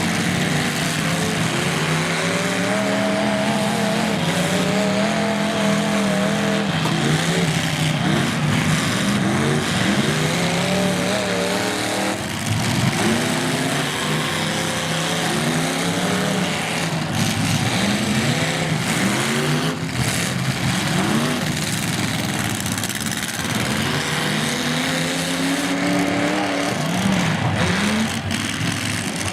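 Several demolition-derby car engines revving and running at once, their pitches rising and falling over one another as the cars accelerate and back up, with occasional thuds of cars colliding.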